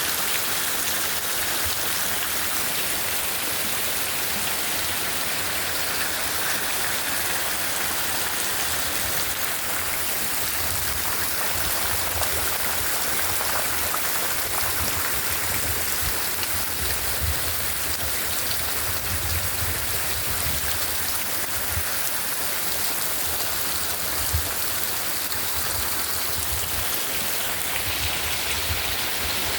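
Heavy rain falling steadily, a dense even downpour with raindrops drumming on surfaces.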